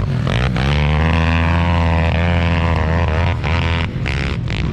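Small single-cylinder pit bike engine running hard at high, nearly steady revs, the note wavering slightly; after about three seconds it turns choppy and uneven.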